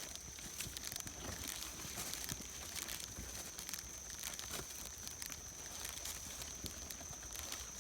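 Slow footsteps scuffing and crunching down a steep dirt trail, with a stream of small crackles and rustles. A steady high-pitched tone runs underneath.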